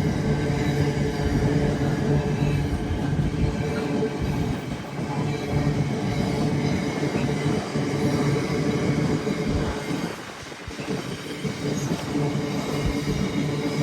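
Diesel train engine running steadily, with a constant low hum, briefly quieter about ten seconds in.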